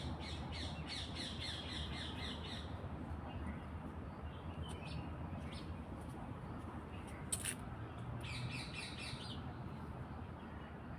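A bird calling in quick series of repeated high chirps, once at the start and again about eight seconds in, over a steady low background hum. A brief sharp click comes about seven seconds in.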